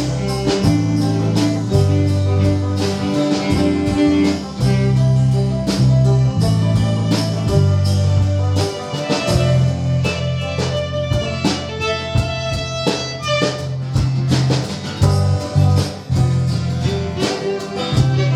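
A band playing an instrumental stretch of a song, with a steady beat and no singing.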